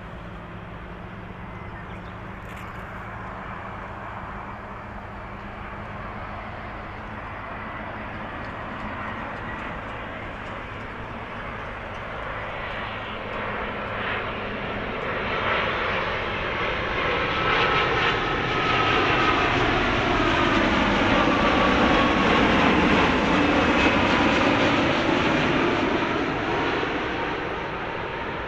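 Boeing 787 jet airliner's engines on a landing approach, growing louder as it nears and passes. A sweeping, phasing whine comes in at the loudest point, about three quarters of the way through, then the sound eases slightly near the end.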